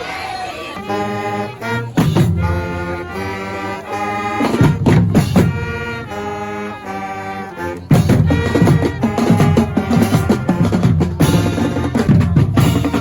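Marching band playing: brass holding chords over drums. Heavy drum hits come in about two seconds in, and the band gets louder around eight seconds in.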